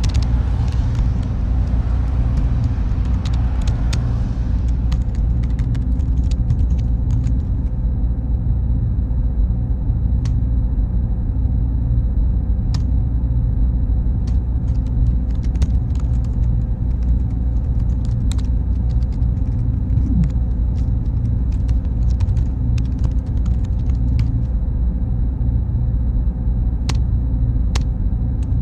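Server room ambience: a steady low hum of cooling fans with a faint high whine and a few small clicks. A soft hiss fades out over the first few seconds.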